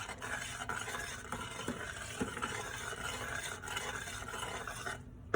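Sauce of reduced duck-basting liquid simmering and sizzling steadily in a pan, with a few light clicks from stirring; the sound cuts off abruptly about five seconds in.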